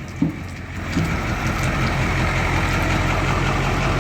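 Dump truck engine idling with the PTO engaged, driving the hydraulic pump that raises the dump bed. About a second in, the sound grows louder and then holds steady.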